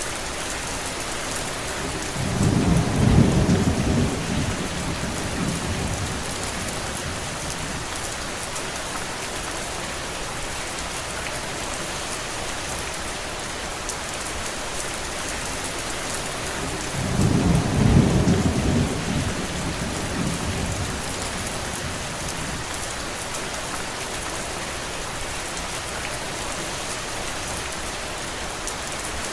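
Steady heavy rain, with two low rumbles of thunder lasting a few seconds each, the first a few seconds in and the second a little past the middle.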